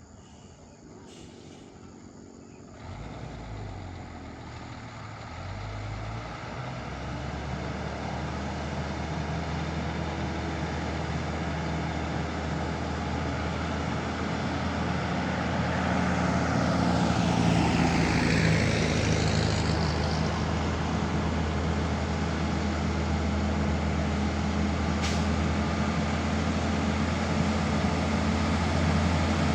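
Heavy truck engine running under load, growing steadily louder for about fifteen seconds as it comes closer, then holding steady. A hiss comes partway through, and there is one sharp click near the end.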